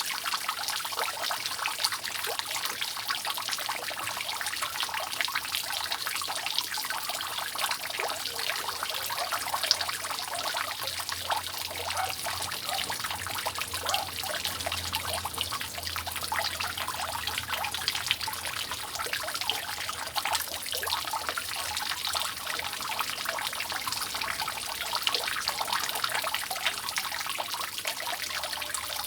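Water dripping and trickling steadily off a roof: a dense, continuous patter of many small drops, with no pauses.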